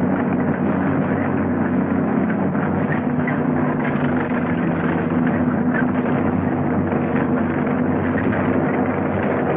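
Massed tank engines running in a steady low drone, with a rumbling mechanical clatter over it, heard through an old film soundtrack with nothing above about 4 kHz.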